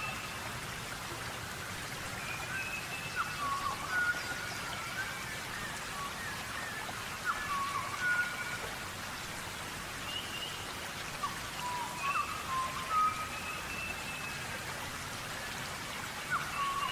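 Birds chirping: short, scattered whistled notes and quick up-and-down glides, over a steady hiss.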